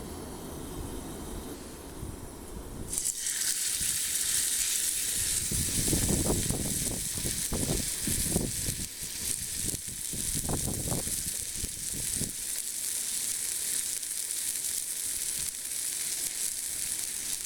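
Steak searing on a hot forged iron plate. A loud steady sizzle starts suddenly about three seconds in, after a low steady rumble, with uneven lower crackling through the middle.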